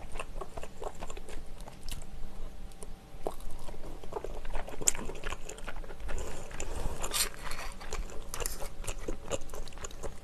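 Close-miked mouth sounds of a person chewing a shrimp-filled dumpling in rosé sauce: wet chewing and smacking with many small sharp clicks.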